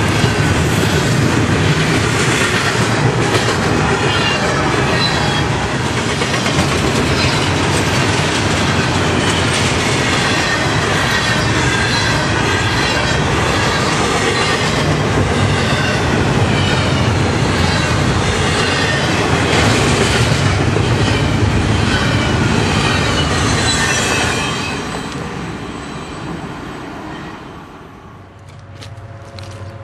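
Freight train of intermodal well cars, some carrying containers and some empty, rolling past at close range: a loud steady rumble and clatter of steel wheels on rail, with wheel squeal sliding up and down in pitch. The noise dies away from about 24 seconds in as the last cars pass.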